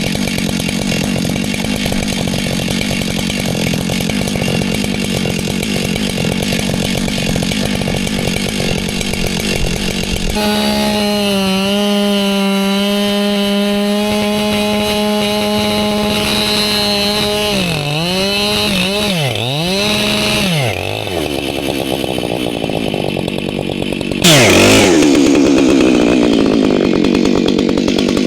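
Two-stroke chainsaw cutting a stump close to the ground at full throttle. About ten seconds in, the engine note turns steady and clear. It sags and recovers several times around eighteen seconds as the saw bogs. Near the end it suddenly revs up louder. The chain is dull and is cutting into frozen dirt at the base of the stump.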